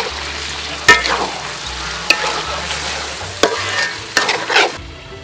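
Chopped quail pieces frying in oil in a metal wok, sizzling steadily, while a metal spatula stirs them and scrapes and clanks against the wok several times. The sizzle cuts off shortly before the end.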